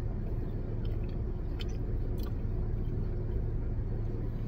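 People chewing mouthfuls of a toasted sub sandwich, with a few small crisp crackles about a second and a half and two seconds in. Under it runs a steady low hum inside the car's cabin.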